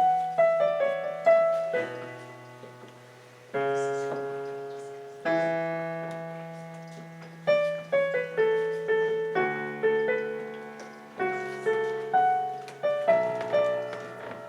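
Solo piano playing a slow piece: sustained chords struck every couple of seconds, then a quicker run of melody notes over held bass notes from about eight seconds in.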